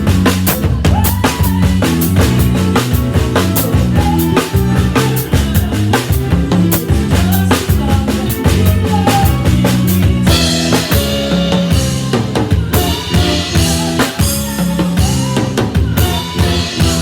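A band playing without vocals, led by a drum kit: bass drum, snare and rim clicks over a stepping bass line. About ten seconds in, cymbals wash in over the top.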